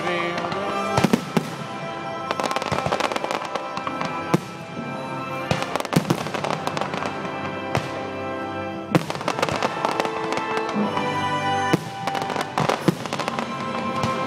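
Fireworks display: repeated sharp bangs in clusters, with several loud single reports, over music playing.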